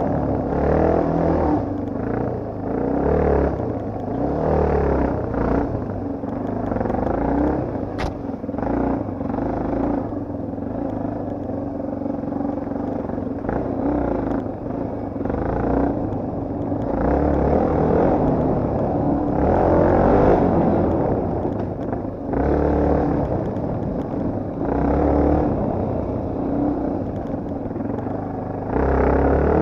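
Yamaha TT250R's single-cylinder four-stroke engine running under a riding load, the throttle opening and closing every few seconds so the engine note rises and falls. There is a single sharp click about eight seconds in.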